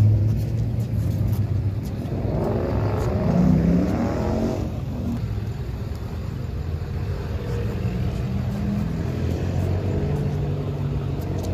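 Car engines running with a steady low hum, and a louder swell of engine sound about two to four and a half seconds in.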